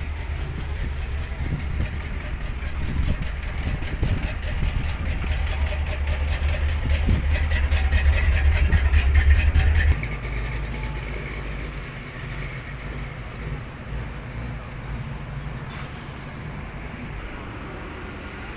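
A car engine running close by, growing louder for about ten seconds, then dropping off suddenly to a quieter background.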